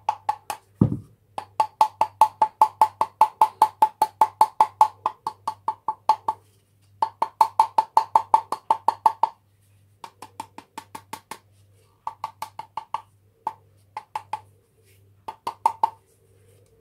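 Rapid, even tapping on sheet lead while shaping a small pouring spout, about six hollow-sounding knocks a second, in runs of several seconds with short pauses between them.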